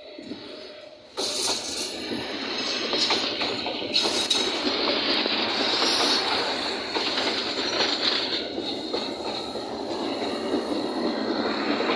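A railway rescue train passing close by: loud rolling wheel-on-rail noise that starts suddenly about a second in, with a steady high-pitched wheel squeal running through much of it.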